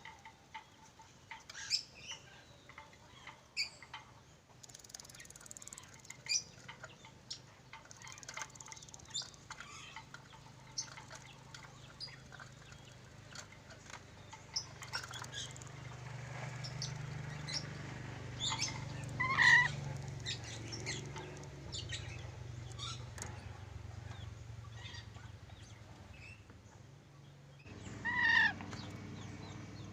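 Nuri dora parrot giving short, sharp squawks and chatter at irregular intervals, with two louder pitched calls, one a little past the middle and one near the end. A low steady hum runs underneath through the second half.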